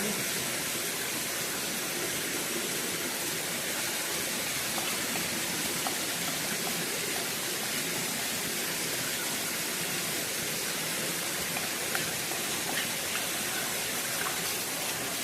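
Steady rushing of flowing water from a jungle stream, an even hiss with no change in level.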